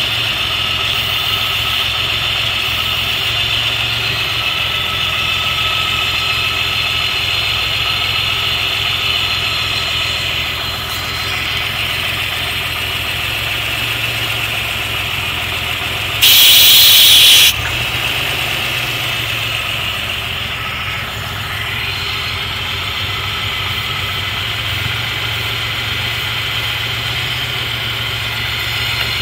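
A 1990 Chevrolet Beretta engine idling roughly, the sign of a vacuum leak, which the owner later traces to a bad intake manifold gasket. A little past halfway, a loud hiss about a second long from a burst of aerosol carb cleaner spray.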